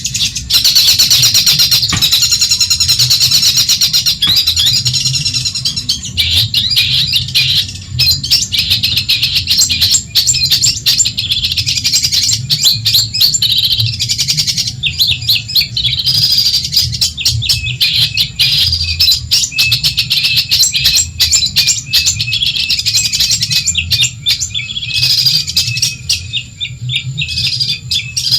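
Long-tailed shrike (cendet) singing non-stop: a loud, fast chattering of rapid, scratchy notes, with a steady low hum underneath.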